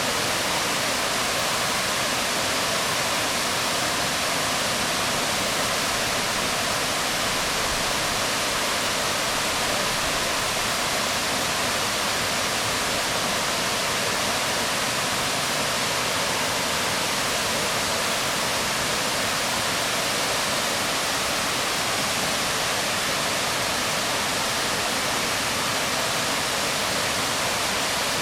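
Waterfall pouring onto rocks: a steady, unbroken rush of water, bright and hissing, with no change in level.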